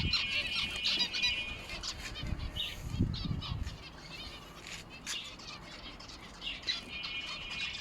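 Caged lovebirds chirping and chattering in short high calls, with a burst of wing flapping about two to three and a half seconds in.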